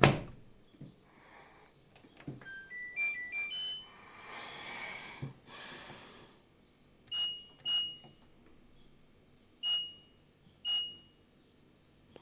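LG washing machine control panel: a sharp click, then a short tune of stepped electronic beeps about three seconds in. Later, four single button beeps, each with a click, as settings are pressed in.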